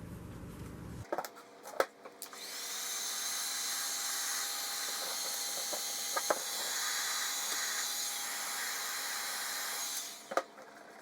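Milwaukee cordless tire inflator switched on: its motor spins up with a rising whine and runs steadily for about seven seconds, then stops. A few clicks come before it starts and one after it stops.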